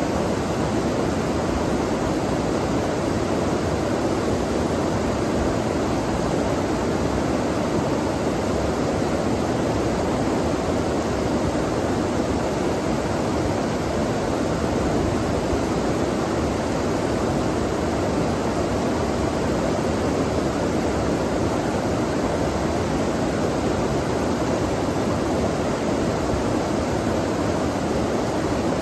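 Flowing stream water rushing steadily, an even, unbroken sound with no separate events.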